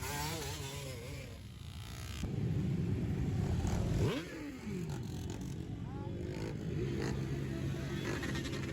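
Motorcycles riding past in a street procession, their engines running at low revs. One passes close about four seconds in, its engine note rising and then dropping in pitch as it goes by.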